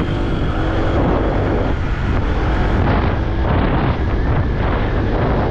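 Wind buffeting the microphone of a moving motorbike, with the bike's engine running underneath in a steady low rumble.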